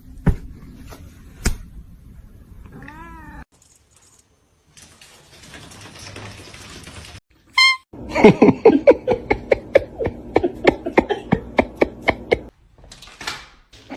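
A cat meowing: one drawn-out meow about three seconds in, then, after a cut, a fast run of short repeated sounds lasting about four seconds.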